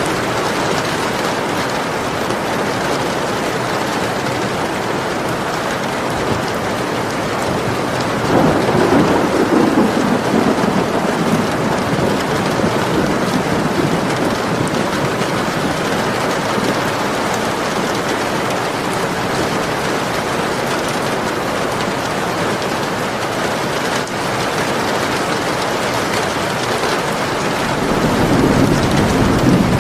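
Steady rain falling, with two low rolls of thunder: one about a third of the way in lasting a few seconds, another near the end.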